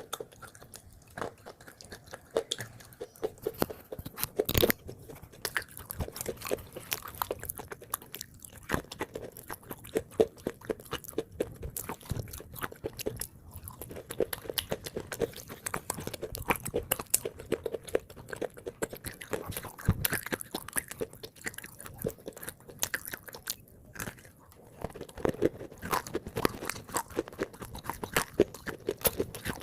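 Close-up chewing and crunching of water-soaked red-grey edible clay (khawa clay): a dense run of small crackling crunches with brief pauses.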